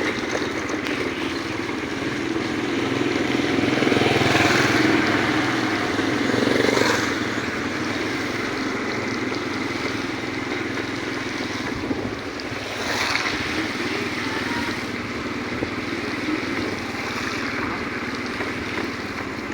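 Steady engine and wind noise of a moving motor vehicle on a rainy ride, swelling louder from about four to seven seconds in and again briefly around thirteen seconds.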